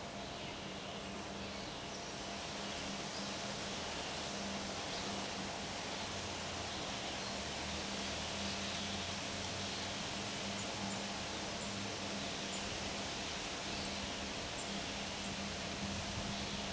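Steady wind with leaves rustling in the trees. A faint low hum runs underneath, and a few faint high chirps come in the second half.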